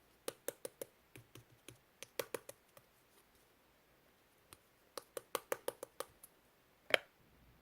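Slime being pressed and played with by hand, giving runs of sharp little popping clicks, several a second in bursts, with one louder pop about seven seconds in.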